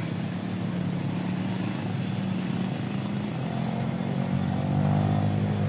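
A small engine running steadily with a low hum. Its pitch shifts slightly about three to four seconds in, and it gets a little louder near the end.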